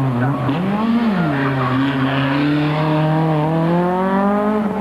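Rally car engine revving hard through a chicane. The pitch drops as it slows, blips up briefly and falls again about a second in, then climbs slowly and steadily as the car accelerates away.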